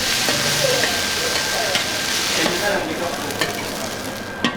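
Onions, chickpeas and giant couscous sizzling in hot oil as they are stirred and fried, with a sharp knock of a utensil near the end.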